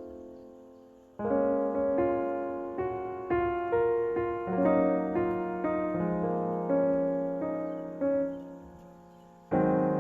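Background piano music: a slow melody over sustained chords, notes struck and left to ring and fade.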